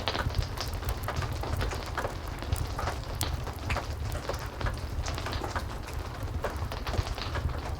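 Steady heavy rain with a low rumble, mixed with gentle crackling from a wood fire: many scattered sharp little pops and clicks.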